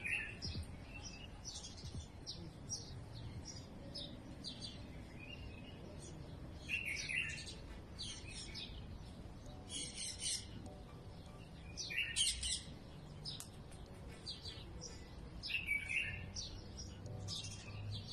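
Small birds chirping: many short high-pitched calls, with louder bursts of chirping every few seconds.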